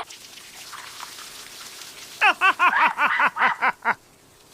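A faint hiss, then about two seconds in a burst of laughter: a quick run of about eight "ha" pulses, each falling in pitch, lasting nearly two seconds.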